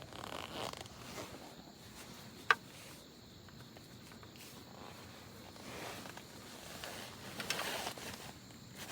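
Faint rustling and handling, with one sharp click about two and a half seconds in and a longer swish near the end.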